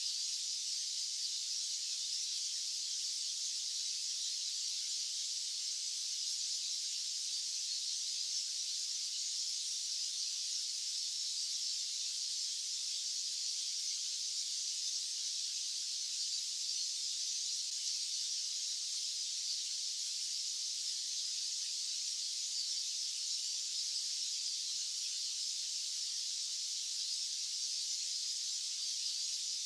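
White noise track: a steady, high-pitched hiss with no low end, unchanging throughout.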